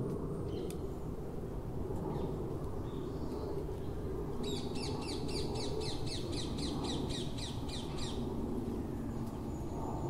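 A bird calling in a quick run of about fifteen short, high, falling notes, about four a second, lasting nearly four seconds, over a steady low background rumble.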